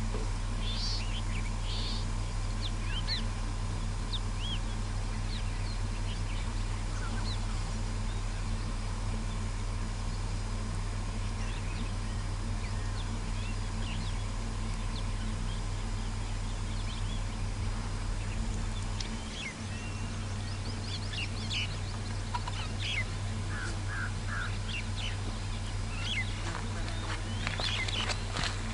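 Wild birds calling, with many short scattered chirps and calls that grow busier in the last several seconds, over a steady low hum.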